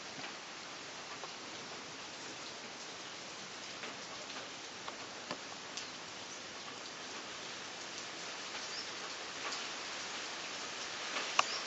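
Steady rain falling, an even hiss dotted with scattered sharp drop ticks, growing slightly louder near the end with one louder tick.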